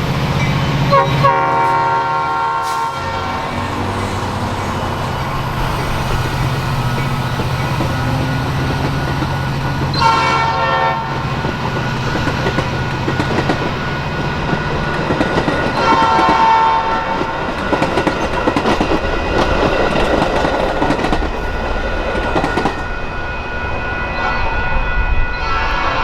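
A passing train: its locomotive horn sounds four times (near the start, about ten seconds in, about sixteen seconds in and at the end), over the steady running of a diesel locomotive, and in the second half the wheels clack over the rail joints.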